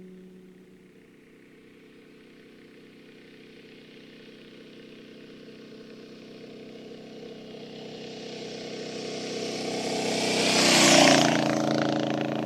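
A motor vehicle approaching and growing louder over about ten seconds, passing close about eleven seconds in, its engine note dropping slightly in pitch as it goes by.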